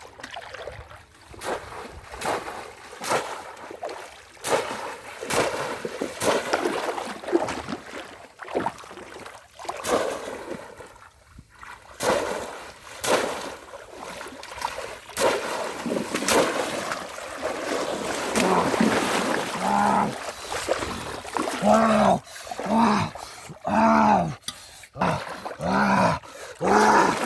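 Water splashing in many short, irregular strokes. In the last several seconds a dog growls and barks in a series of calls about a second apart.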